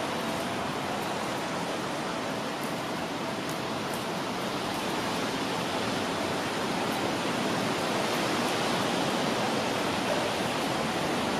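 A steady, even hiss of rain, slightly louder near the end.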